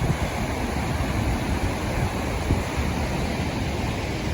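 Steady rush of Gufufoss waterfall, an even roar of falling water, with wind buffeting the microphone.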